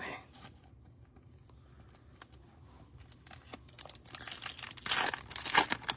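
Trading cards and pack wrappers being handled: soft irregular clicks and crinkling, faint at first and busier from about three seconds in, loudest near the end.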